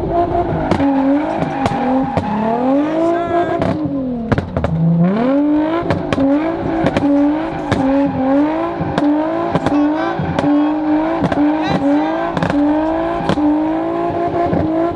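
Car engine revved hard while the car spins donuts, its pitch surging up, holding and dropping about once or twice a second, with tyre noise, heard from inside the car.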